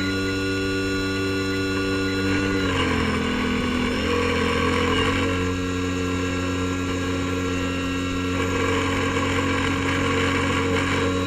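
Airboat's engine and air propeller running steadily, with a brief shift in pitch about three seconds in before it settles back to an even drone.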